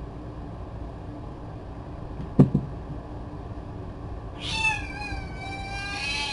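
Mother cat giving one long meow that begins about two-thirds of the way in and falls slightly in pitch. A single short knock sounds a little before it.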